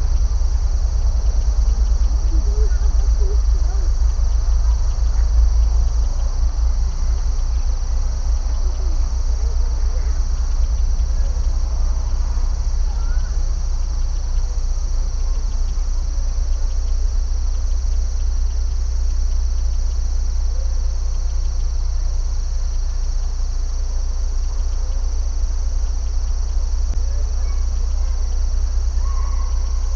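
Steady chorus of insects, a continuous high shrill, over a low rumble, with scattered faint short calls.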